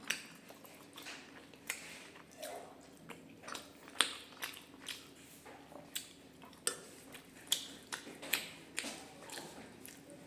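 Close-up eating sounds: a person chewing a meal of rice and curries, with an irregular run of short sharp mouth clicks and smacks, roughly two a second.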